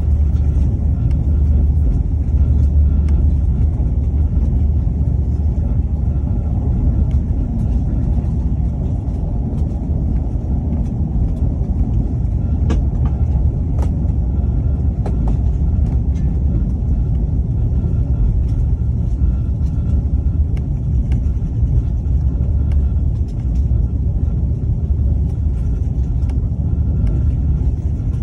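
A moving train runs with a steady low rumble, with a few faint clicks in the middle.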